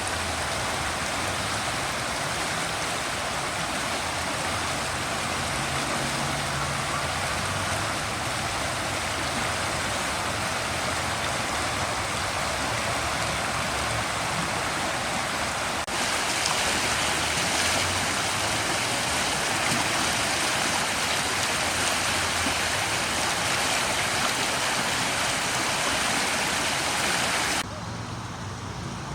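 Steady hiss of a car driving on a wet road, heard from inside the cab. It steps a little louder about halfway through and drops off sharply near the end.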